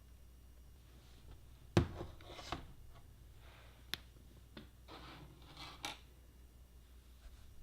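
Handling noises: several sharp clicks and knocks, the loudest about two seconds in, with short bursts of rubbing and scraping between them, over a low steady hum.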